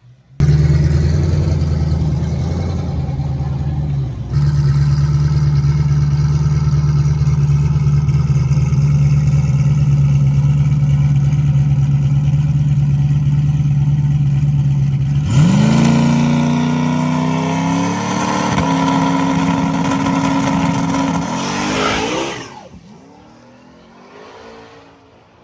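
Turbocharged LS V8 drag-car engine running loud and steady at raised rpm, then revving up about 15 seconds in. The pitch climbs with a step near 18 seconds before the sound drops away sharply about 22 seconds in.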